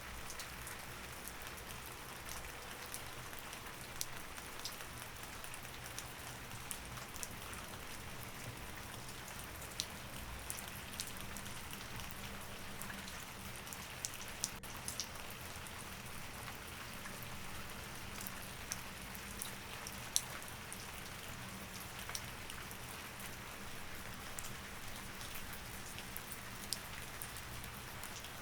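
Steady rain falling, with individual drops ticking sharply now and then over a faint low hum.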